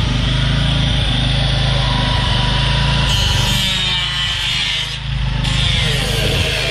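Power tool cutting through the sheet-metal skin of a Chevy S10 door: a steady high whine over a constant low motor hum, easing briefly about four to five seconds in.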